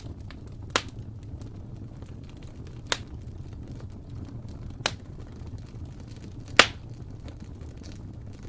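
Wood fire burning in a fireplace, with four sharp pops of the burning wood about two seconds apart over a low steady rumble; the last pop is the loudest.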